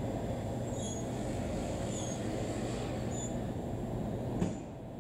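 Keihan Keishin Line electric train running past at close range on street track: a steady low rumble of wheels and running gear, with short high chirps about once a second. A sharp click comes near the end, after which the rumble is a little quieter.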